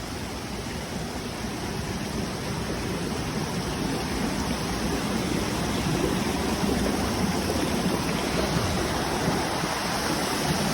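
Dzhur-Dzhur waterfall: steady rushing of falling water, growing a little louder over the first few seconds.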